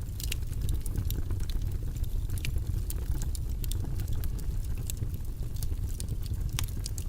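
Steady low white noise track, its energy mostly in the bass, with irregular light clicks and taps scattered over it, a few each second.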